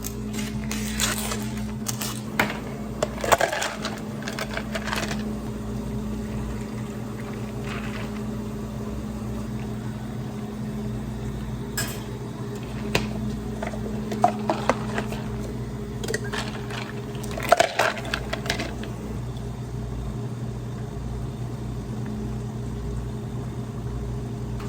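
Clinking and clattering of dishes and utensils being handled, in two bursts of activity, over a steady low machine hum.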